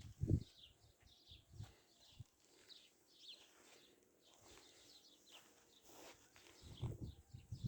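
Faint, repeated chirping of small songbirds, short calls scattered throughout. Brief low rumbling bursts come right at the start and again near the end.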